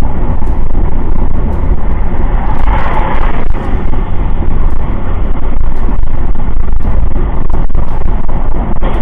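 Loud, steady rumbling vehicle noise, road and wind noise on the microphone of a moving vehicle, with scattered brief knocks.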